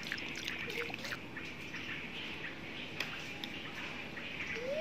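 Small birds chirping steadily in the background, with a few faint clicks. A longer rising-and-falling call starts near the end.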